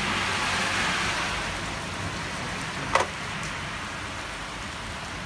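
Steady thunderstorm rain falling on wet pavement, with a single sharp tap about three seconds in.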